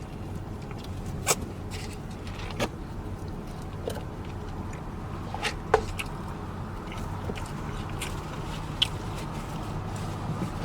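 Chewing a mouthful of sub sandwich, with a few sharp mouth clicks and smacks, over the steady low hum of an idling vehicle engine.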